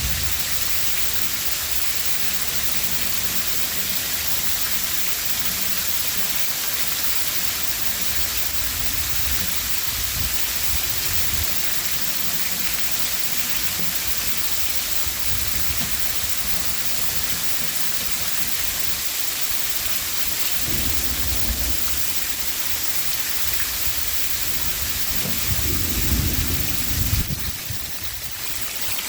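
Torrential rain pouring down hard and steadily, with low rolls of thunder about two-thirds of the way in and again near the end.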